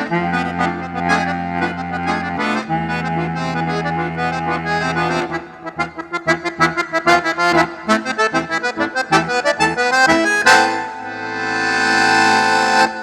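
Accordion (sanfona) playing: held chords over bass notes, then a run of short detached notes. The piece ends on a long swelling final chord that cuts off sharply.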